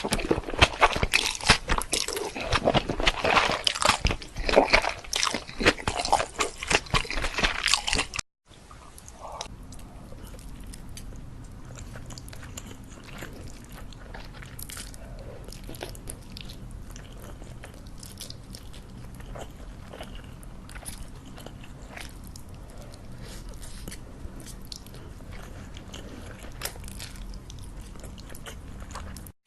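Close-miked eating sounds: loud, dense crunching and biting for about eight seconds, then, after a sudden cut, quieter chewing over a steady low hum.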